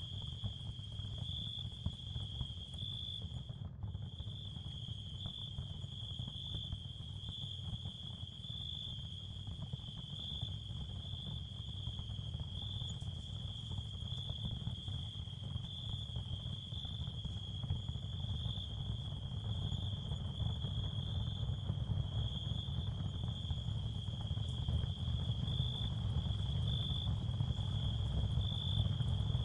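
Ambient nature soundscape of crickets chirping in a steady high trill over a continuous low rumble. The trill drops out briefly about four seconds in.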